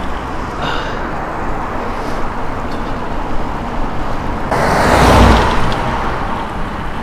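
Steady wind and road noise while riding a bicycle along a road, with a louder rushing swell that starts suddenly about four and a half seconds in and fades over the next two seconds.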